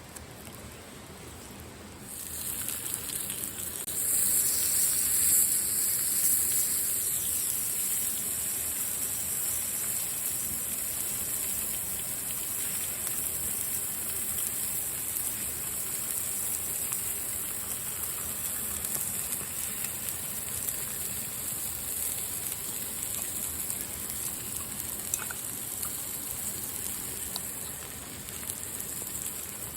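Steady rain falling, an even hiss of drops that grows louder about two seconds in and again about four seconds in, then holds steady.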